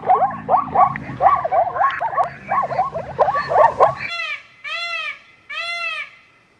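Animal calls: a fast run of short, yelping calls, about five a second, that stops abruptly about four seconds in. Then three separate arching cries follow.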